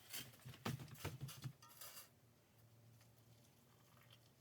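A few light knocks and clinks of a pot and glass jars being handled in the first two seconds, then near silence.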